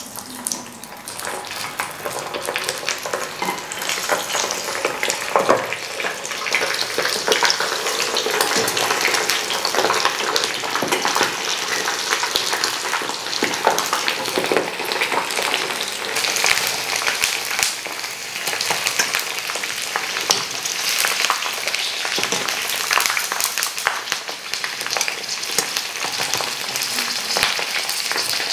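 Pork tails, their skin first dried in an air fryer, deep-frying in a pan of hot oil: a steady, loud sizzle thick with crackles and pops. The sound builds up over the first couple of seconds after the tails go into the oil.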